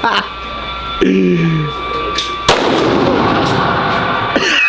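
A single gunshot at an indoor shooting range about halfway through, sharp, with a reverberant tail.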